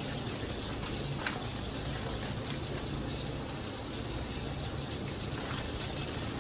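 Steady sizzle of steak frying in hot grease in a pan.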